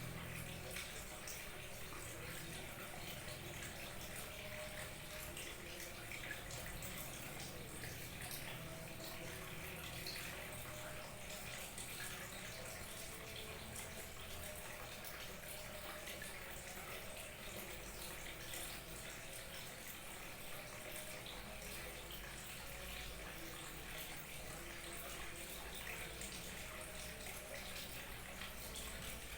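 Small waterfall, water trickling and splashing steadily.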